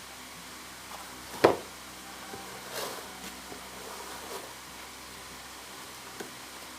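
Work on an old rubber tyre with a knife: one sharp knock about a second and a half in, then a short scrape and a few faint knocks and rustles as the tyre piece is handled and cut.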